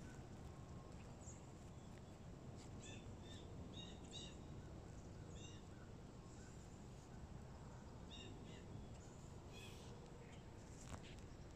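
Faint, scattered short bird chirps, some in quick pairs or runs, over a low steady rumble.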